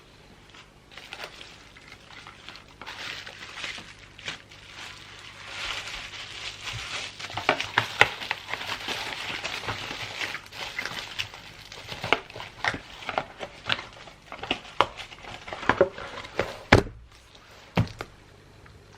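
Wrapping paper crinkling and rustling as it is handled and folded, dense in the middle and thinning to separate crackles, with two sharp knocks near the end.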